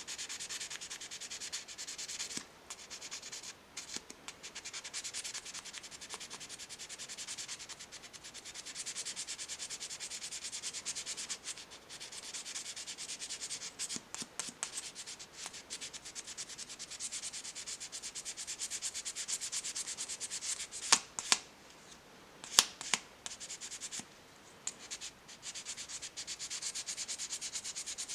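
Fine 1500-grit wet sandpaper rubbed by hand in quick back-and-forth strokes on the metal bolster of a pocketknife, a steady fine scratching. Two sharp clicks come about three quarters of the way through.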